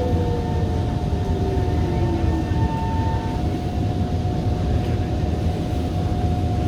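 Kawasaki C151 metro train heard from inside the car: a traction motor whine falls in pitch over the first two and a half seconds as the train slows. It sits over a steady rumble from the running gear, with a higher steady tone that carries on throughout.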